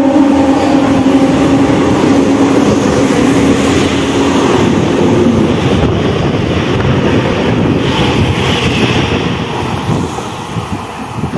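Electric multiple-unit suburban local train running through a station at speed without stopping: a loud, steady rush and rattle of the passing coaches with wheel clatter, while the last note of its horn fades over the first few seconds. After about ten seconds the noise drops to a quieter, uneven rumble.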